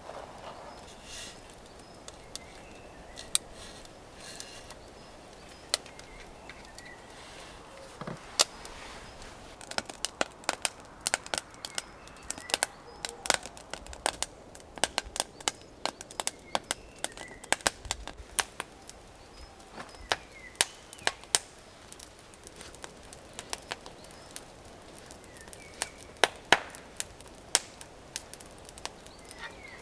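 Sharp, irregular snaps and cracks of wood, a few at first, then a dense run through the middle, thinning out again toward the end.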